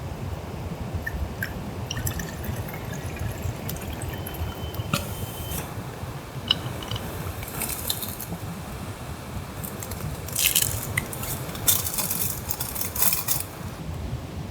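Liquid being poured and dripping in a few short spurts, with small scattered clicks over a steady low rumble.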